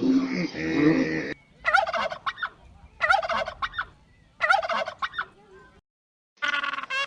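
A turkey gobbling: three rapid, warbling gobbles about a second and a half apart. They follow the end of a low growl in the first second or so, and another bird's repeated calls begin near the end.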